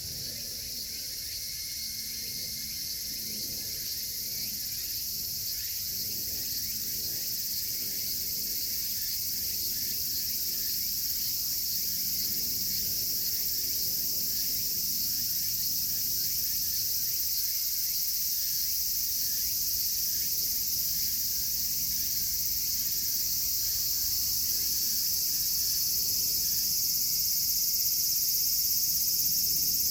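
A dense chorus of cicadas shrilling steadily and slowly growing louder, with faint crackling from a wood campfire underneath.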